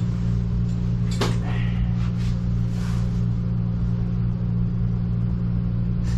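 Steady low droning hum with a few light knocks, about one, two and three seconds in.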